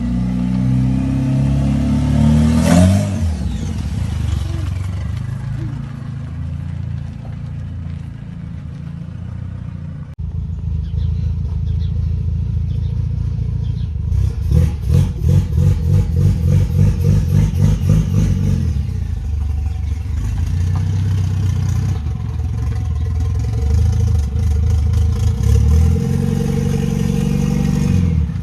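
Renault Twingo GT's swapped-in 2.0-litre F4R turbo four-cylinder engine revving and pulling hard, its pitch climbing and then dropping again and again. Partway through comes a stretch of rapid, even pulsing at about five beats a second.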